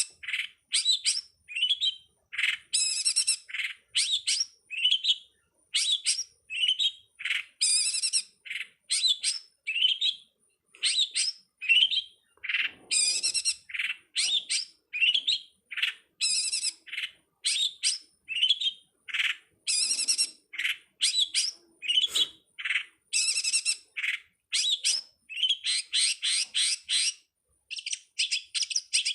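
Songbird on a masteran bird-song training recording for cowet/codet/pentet (long-tailed shrike) keepers, giving short sharp chirps about one to two a second, with a faster run of notes near the end.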